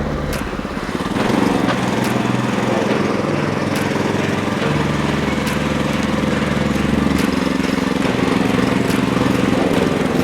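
Walk-behind tractor's single-cylinder engine running under load as it drives, its pitch shifting a few times as the engine speed changes.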